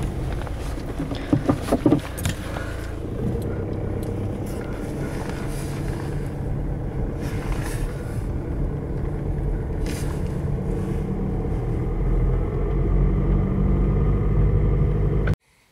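VW Golf Mk5 engine running steadily at about 1000 rpm, heard from inside the cabin, with a few light knocks about one to two seconds in. The sound cuts off abruptly near the end.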